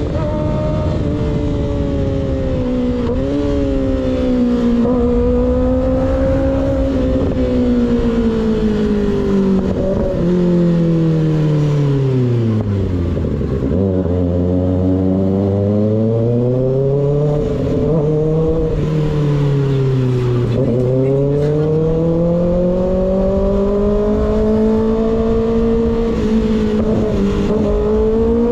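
Kawasaki ZX6R inline-four through an un-baffled M4 GP19 slip-on exhaust while riding. The engine note falls steadily as the bike slows to a low point about halfway through, rises as it pulls away, dips once more about three-quarters through and climbs again, over a steady rush of wind.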